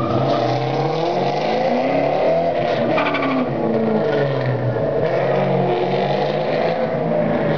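Ford Mustang SVT Cobra's 4.6-litre V8 accelerating hard away through an autocross course, the revs climbing and dropping several times as the driver gets on and off the throttle between the cones.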